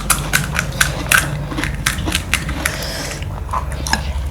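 Close-up crunching of crisp street food being bitten and chewed, a fast run of sharp crackles that thins out after about three seconds.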